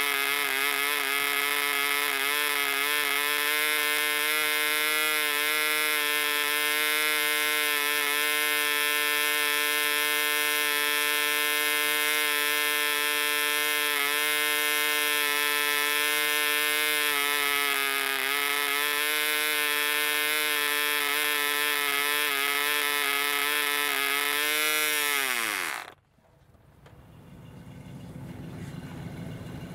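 Barbini B.38 1cc model airplane diesel engine running at high revs and spinning a 7x4 propeller, with a steady high buzz that wavers slightly: a new engine running somewhat unevenly before it is broken in. Near the end it slows in pitch and stops abruptly, and a quieter low rumble follows.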